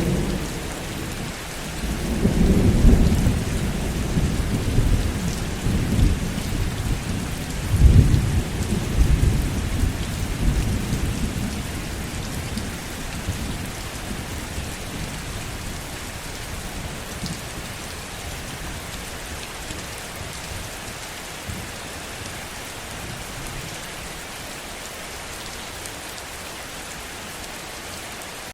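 Heavy rain falling steadily, with a long low rumble of distant thunder that swells twice in the first part and dies away about halfway through, leaving only the rain.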